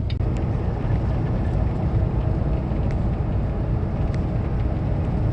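Semi-truck driving, its engine and road noise making a steady low drone.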